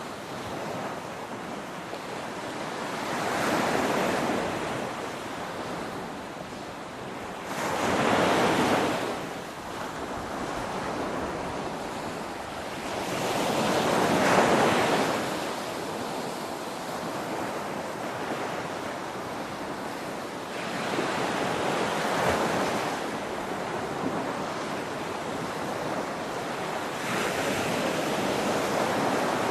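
Ocean waves crashing, one after another: five swells of surf every five to seven seconds over a steady wash, the loudest about halfway through.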